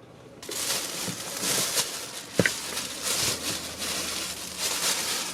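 Purchased hobby supplies and their packaging being rustled and handled, an irregular crinkling with one sharp click about two and a half seconds in.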